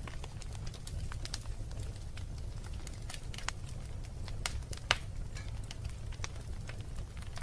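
Wood fire crackling in a fireplace: irregular sharp pops and snaps over a steady low rumble of the burning, with one louder pop about five seconds in.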